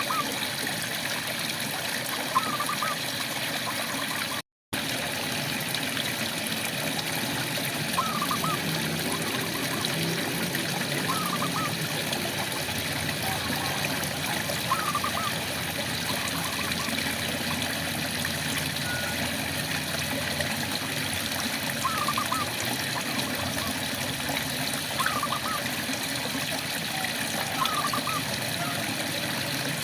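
Steady rain with frogs calling over it: short rising chirps, singly or in quick pairs, every few seconds. The sound cuts out for an instant about four and a half seconds in.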